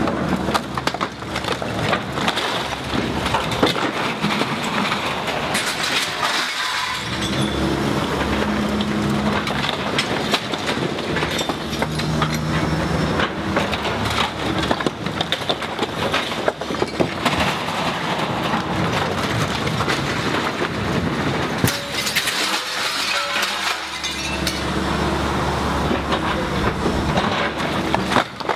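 Building demolition: wood, glass and debris cracking, breaking and crashing almost without pause, with a machine's engine running underneath.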